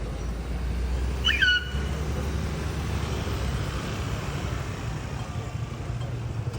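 Steady low rumble of road traffic and vehicle engines, with one short high-pitched squeal a little over a second in.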